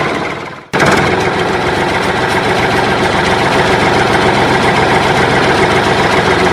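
An engine running steadily at idle, fading down and cutting back in abruptly about three-quarters of a second in, then stopping suddenly at the end.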